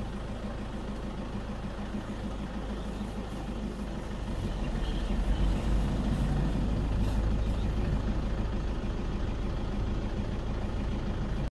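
Safari jeep engine running, getting louder about four seconds in, then cutting off suddenly near the end.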